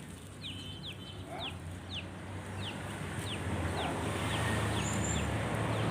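A small bird calling: a short high peep that falls in pitch, repeated about twice a second, over a low steady hum that grows louder about halfway through.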